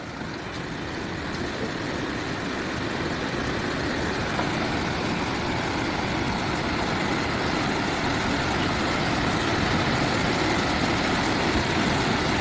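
Fast-flowing floodwater rushing steadily, building a little over the first few seconds and then holding even.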